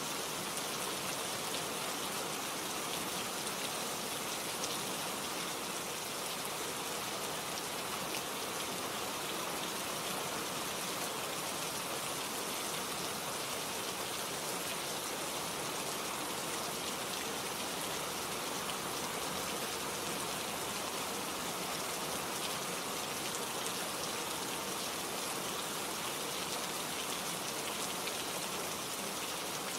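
Steady rain falling, with close raindrops pattering on leaves.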